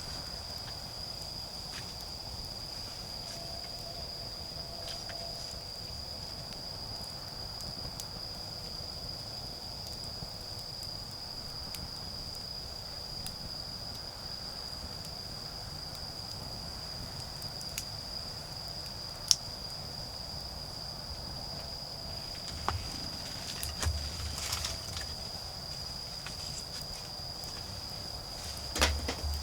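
Autumn crickets chirring in an unbroken, steady high trill, with a few sharp crackles and, in the last third, bursts of rustling and knocking.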